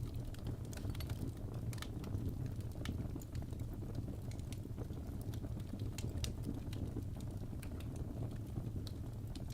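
Crackling fire: irregular sharp pops and crackles, a few each second, over a steady low rumble.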